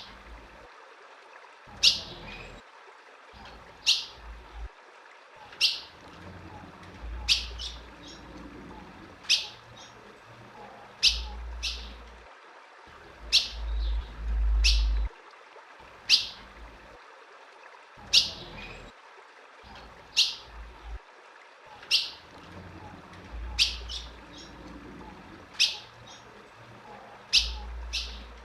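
Female ultramarine grosbeak (azulão) giving short, sharp single chirps at a steady pace of about one every two seconds. Occasional low rumbles run underneath.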